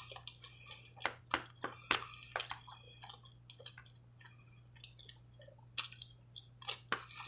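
Close-up mouth sounds of someone eating: chewing with irregular wet clicks and smacks. A steady low hum runs underneath.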